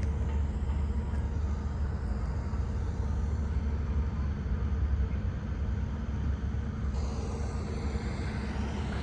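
Steady low engine rumble with a hiss that sweeps up and down. The hiss grows brighter about seven seconds in.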